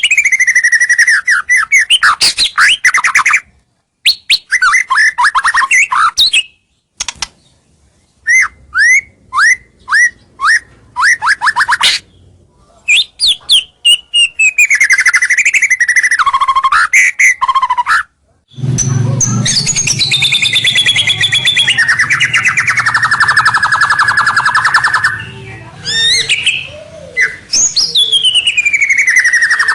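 White-rumped shama (murai batu) singing loudly: fast runs of repeated chirps, falling whistled sweeps and trills, broken by a few abrupt dead-silent gaps. About two-thirds of the way through, a low hum comes in under a long, buzzy, rattling trill.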